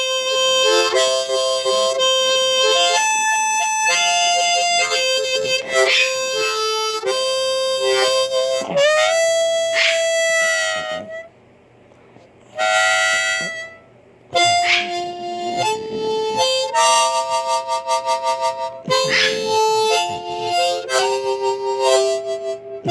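Blues harmonica playing phrases of held notes, some bent so that they slide in pitch, with short breaks about eleven seconds in and again near fourteen seconds.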